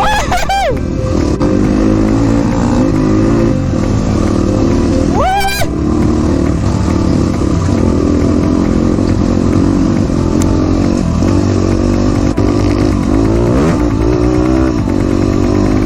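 Dirt bike engine running under way on a gravel off-road track, its revs rising and falling as the throttle changes, with a quick sharp rev about five seconds in.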